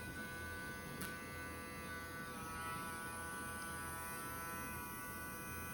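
Small electric rotary nail grinder running with a steady high whine, its pitch dropping slightly about two seconds in, with one brief click about a second in.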